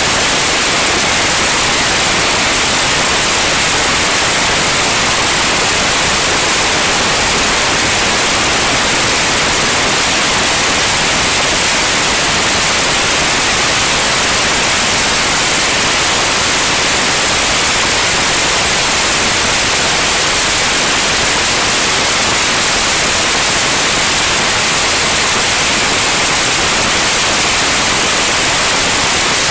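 Light aircraft's cockpit noise in flight: a loud, even, unchanging hiss with no clear engine tone.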